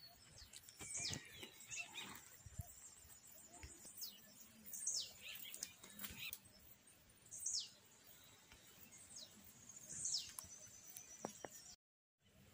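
A bird calling outdoors: a short, high note sweeping sharply downward, repeated four times a few seconds apart over faint rustling. The sound cuts out completely for about half a second near the end.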